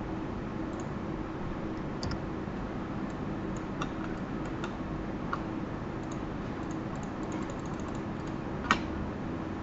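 Scattered clicks of a computer keyboard and mouse, a few at a time, over a steady low hum, with one sharper click near the end.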